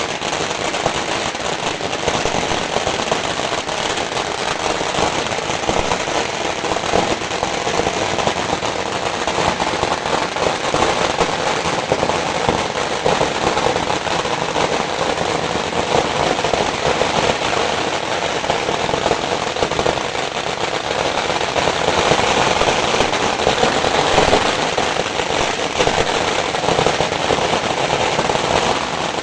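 Fire burning, with a dense continuous crackle and popping at an even level throughout.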